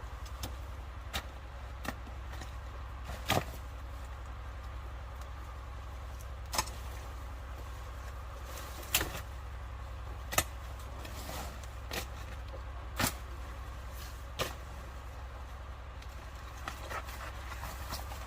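A series of sharp knocks at irregular intervals, about a dozen in all, over a steady low rumble.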